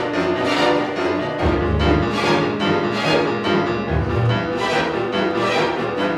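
Chamber string orchestra playing, with repeated short strokes a few times a second and deep bass accents about every two and a half seconds.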